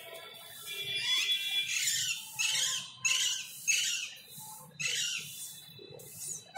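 A bird calling: a run of about five or six short, high calls, one every half-second or so, between about one and five seconds in.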